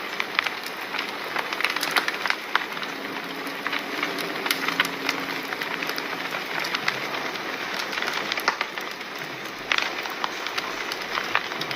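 Wood fire crackling: frequent irregular sharp pops and snaps over a steady hiss of burning.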